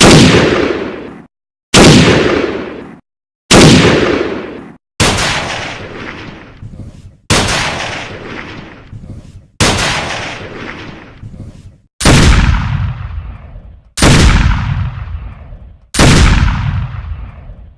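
A series of single gunshot sound effects, nine in all, each a sharp report trailing off in a long echoing tail. The first few are cut apart by brief silences; the later ones follow each other every two seconds or so.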